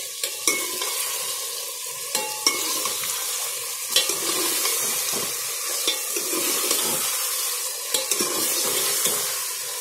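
Chicken pieces and potatoes sizzling as they fry in oil in a metal pot, stirred with a steel ladle that scrapes and clinks against the pot now and then.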